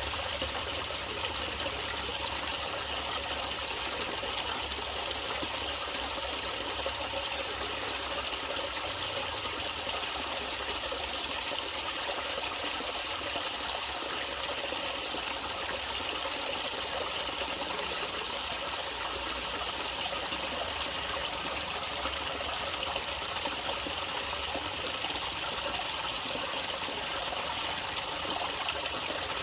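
Stream water flowing steadily, an even rush with no breaks or changes.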